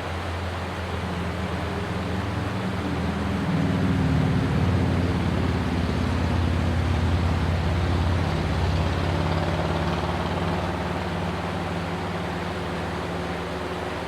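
A stream rushing steadily while a passing engine's low hum swells in about three seconds in, is loudest around the middle, and slowly fades.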